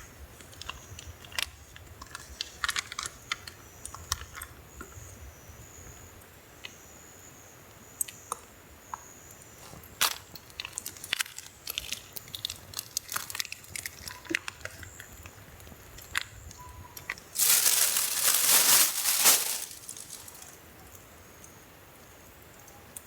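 Small clicks and knocks of camp gear being handled, irregular throughout, with one loud noisy burst lasting about two seconds near the end.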